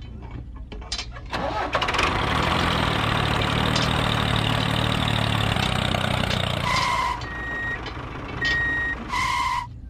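An engine starts and runs steadily with a low hum for about five seconds, then stops. Two short beeps follow.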